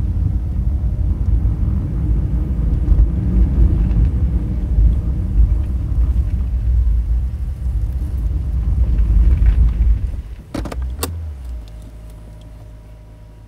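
Honda Fit driving, with a loud low road and tyre rumble inside the cabin, which drops away as the car stops about ten seconds in. Two sharp clicks come just after, then the engine idles with a quiet steady low hum.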